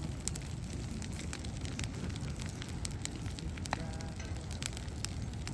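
Bonfire burning: a steady low rumble of flames with sharp crackles and pops scattered throughout.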